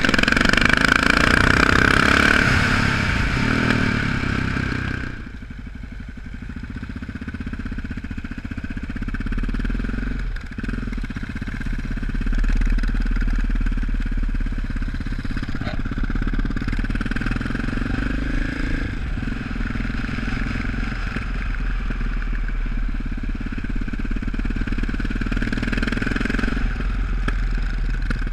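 Single-cylinder supermoto motorcycle engine heard from an onboard camera: loud and rushing with the throttle open for the first five seconds or so, then dropping to a lower, steady engine note at easy riding speed, with a couple of brief dips as the throttle is rolled off.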